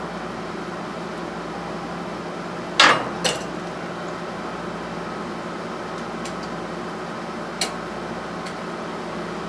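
Steady background hum with two sharp metallic clinks about three seconds in and a few fainter ticks later: a rusted roller chain and metal parts being handled and set down.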